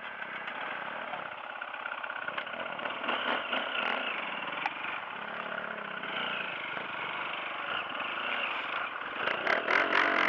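Dirt bike engine running at low revs, its pitch drifting gently up and down, with a cluster of sharp knocks near the end.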